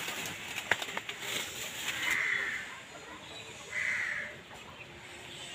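A bird calling outdoors: a short harsh call repeated about every two seconds, twice here. A few sharp clicks come about a second in.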